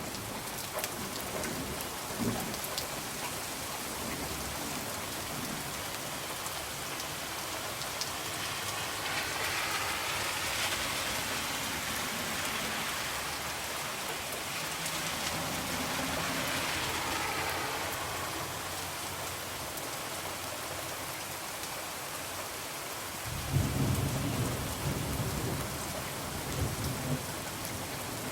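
Steady rain falling on a window, with the small pops and crackles of a wood fire. The rain swells louder for several seconds midway, and a low rumble comes in about 23 seconds in.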